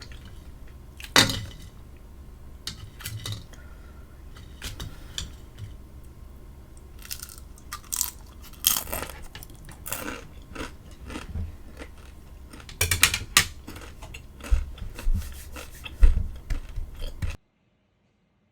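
A person chewing and biting crunchy food close to the microphone: scattered crunches and clicks, busier in the second half, until the sound cuts off suddenly near the end.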